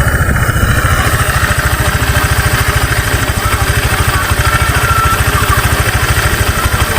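Honda Vario 125's single-cylinder four-stroke engine idling steadily with a fast, even low putter, running with the CVT's V-belt and pulley removed: it starts and runs freely, pointing the earlier seizing at the CVT rather than the engine.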